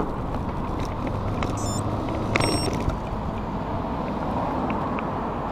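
Motor traffic going past, a steady rumble and hiss, with two brief high-pitched tones a little under two seconds in and again about half a second later.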